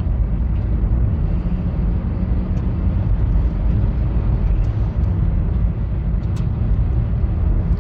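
Steady low road drone of a 2020 Honda Fit driving on a snow-covered highway: tyre and road noise with the engine running, heard from inside the car.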